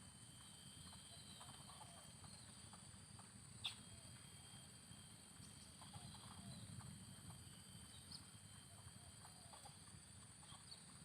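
Near silence: a faint steady high-pitched hum with scattered faint clicks and one sharper click about three and a half seconds in.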